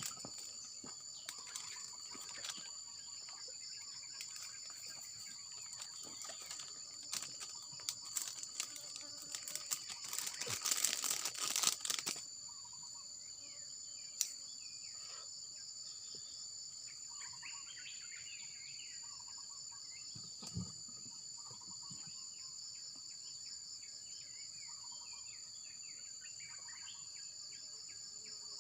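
Steady chorus of insects such as crickets, a high two-tone drone. Between about 7 and 12 seconds in, a close crackling rustle rises over it and stops; after that come faint scattered chirps and one soft thump.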